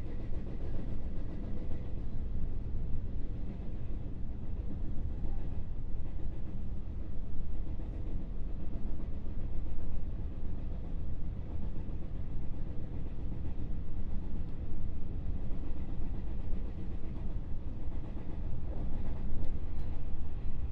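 Running sound inside a JR West 221 series electric multiple unit motor car (KuMoHa 221): a steady rumble of wheels on rail with motor and body noise. A few sharper knocks come near the end.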